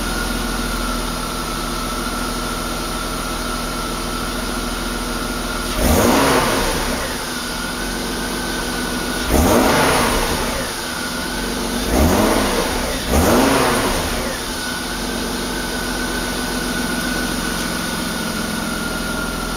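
BMW E36's M50 straight-six idling, then revved four times in quick throttle blips, each rising and falling back to idle, to make the fuel pressure regulator raise the rail pressure. A steady high whine runs under the idle.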